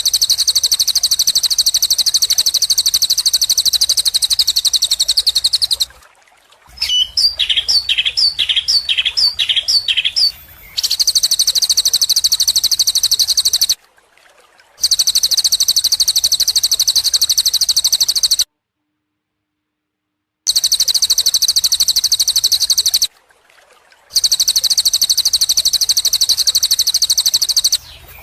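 Recorded songbird song for tutoring caged birds: a very rapid, high-pitched trill in long stretches, broken by short silent gaps. Between stretches comes a run of about seven quick downward-sliding notes.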